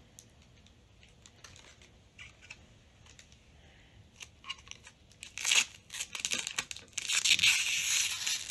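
Packaging being handled, with small rustles and clicks, then loud crinkling and tearing about five seconds in and again through the last second and a half.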